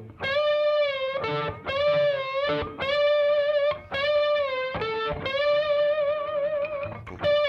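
Electric guitar played with a glass slide: a run of high sustained notes on the G string that glide down a step from the 19th fret to the 17th and back up, each note ringing about a second.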